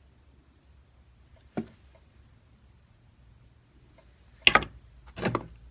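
Three sharp taps of a metal jeweller's setting tool against a small gold stone setting: a light one about a second and a half in, then two louder ones close together near the end.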